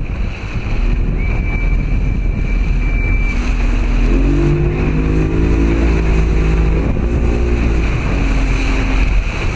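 Steady low rumble with wind buffeting the microphone. A motor's humming tone comes in about four seconds in and holds for several seconds.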